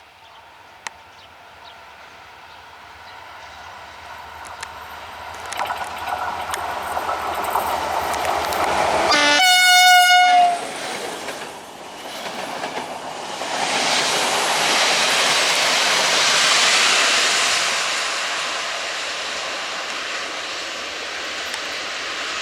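A GM-type diesel-electric locomotive hauling a passenger train approaches, growing steadily louder. It sounds one horn blast of about a second and a half, nine seconds in, the loudest moment. It then passes with continuous engine and wheel-on-rail noise.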